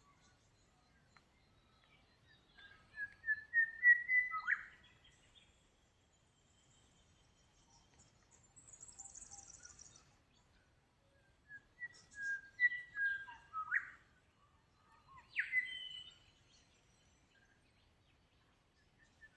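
Birds singing: three phrases of clear whistled notes, the first a quick run of rising notes ending in a sharp downward sweep, with a faint high, buzzy trill from another bird between them.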